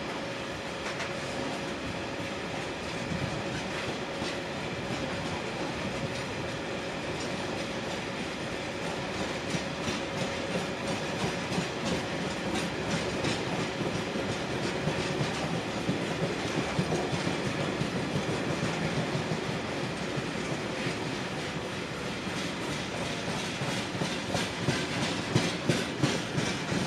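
A train running past on the line, a steady rumble with its wheels clicking over the rail joints, the clicks growing louder toward the end.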